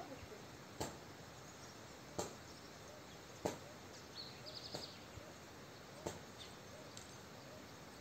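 Sharp knocks come roughly every second and a half. A bird gives a short, high, stuttering trill about four seconds in.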